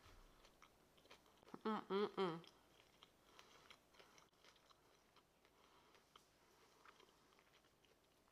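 A person chewing a mouthful of taco with crispy fried tofu and cabbage: faint, scattered mouth clicks. About two seconds in comes a short hummed 'mmm' of enjoyment.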